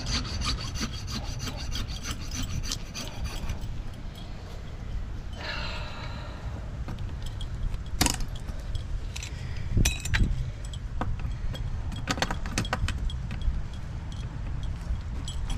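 A saw cutting through the copper pipe of a hose bib, in rapid rasping strokes that are densest in the first few seconds, with a brief squeal of the blade near the middle and scattered strokes later. A steady low rumble runs underneath.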